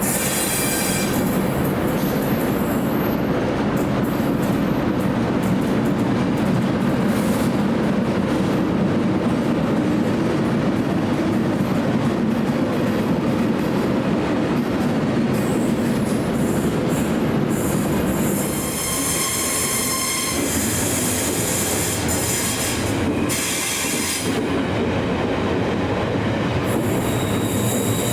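Train running along the track with a steady rumble, and steel wheels squealing in high, ringing tones in the last third.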